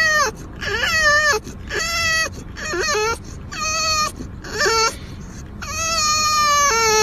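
A cat yowling in a series of drawn-out meows, about six calls with short pauses and pitch dropping at the end of each; the last call is the longest.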